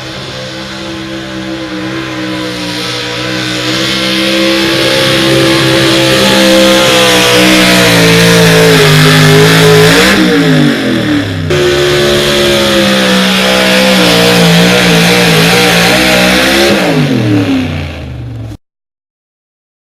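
Super stock two-wheel-drive pulling truck's engine running at full throttle, loud and growing louder over the first several seconds. Its pitch sags and swings about halfway through, then climbs back and holds. The pitch falls as it comes off the throttle near the end, and the sound then cuts off suddenly.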